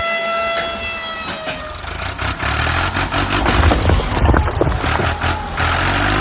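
A horn sounds a steady tone and stops about a second and a half in. A vehicle engine then runs with a low rumble and scattered rattling clicks.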